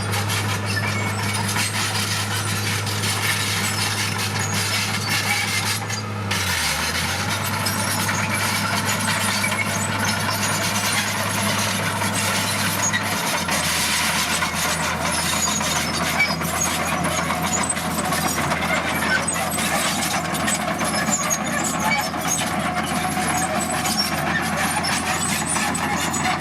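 Heavy diesel engine of earthmoving machinery running steadily. Its pitch dips briefly about six seconds in and settles lower about thirteen seconds in.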